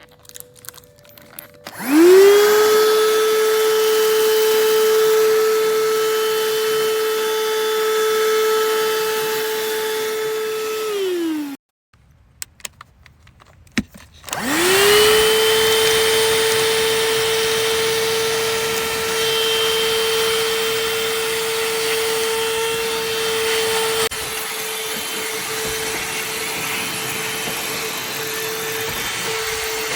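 Cordless handheld vacuum cleaner switched on, its motor whining up to speed and running steadily. It is switched off and winds down, and after a few clicks it is switched on again, spins up and runs on.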